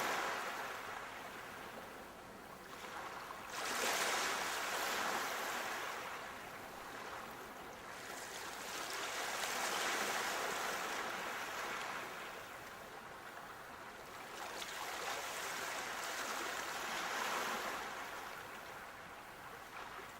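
Sea waves breaking and washing up the shore in four slow surges, each swelling and then fading; the loudest breaks suddenly about four seconds in.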